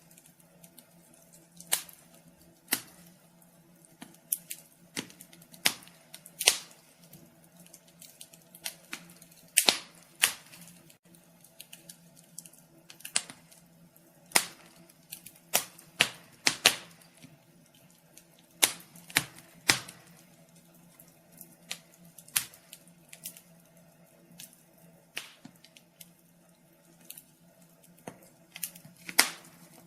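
Wood fire crackling in a fireplace: irregular sharp pops and snaps, several bunched around the middle, over a faint steady low hum.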